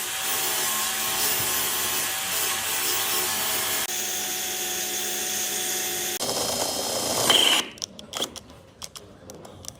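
Electric power tool running on wood with a steady whine, its sound changing twice, then cut off about three-quarters of the way through. A few light clicks and knocks follow.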